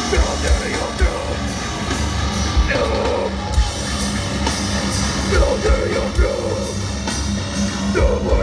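Live hardcore band playing loud, with distorted guitars, hard-hit drums and shouted vocals.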